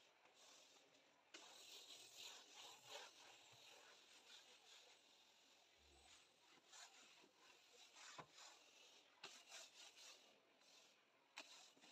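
Near silence with faint rubbing and scraping and a few light knocks, as of small objects being handled and set down.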